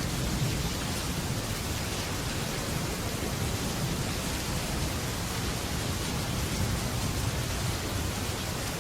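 Heavy rain drumming steadily on a metal roof, with a low rumble of thunder underneath.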